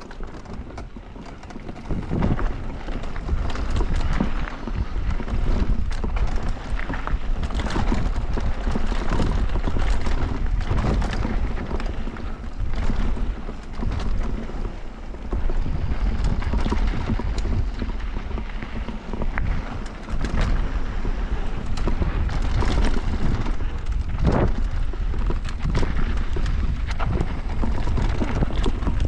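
Electric mountain bike descending a rough downhill trail: wind buffeting the action camera's microphone over tyres rolling on dirt, with frequent rattles and knocks as the bike hits bumps.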